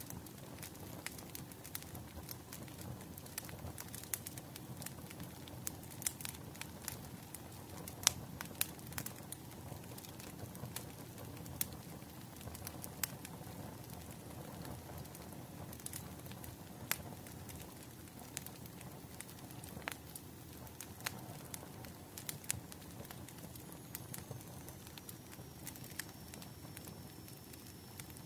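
Bonfire crackling: irregular sharp pops and snaps of burning wood over a low, steady rush of flames.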